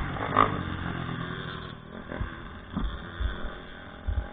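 Off-road motorcycle engine running, fading out after about a second and a half, followed by scattered low thumps and knocks.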